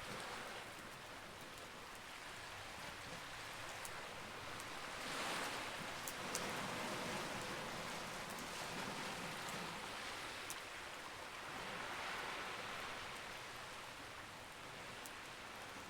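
Campfire crackling, with scattered sharp pops, over a steady wash of sea waves that swells and fades about every six to seven seconds.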